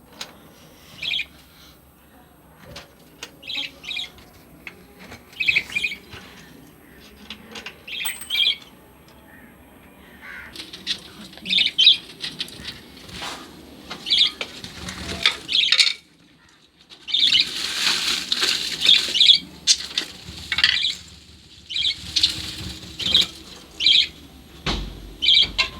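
Pet lovebirds chattering: many short, shrill chirps repeated in quick runs, sparse at first and busier over the last ten seconds.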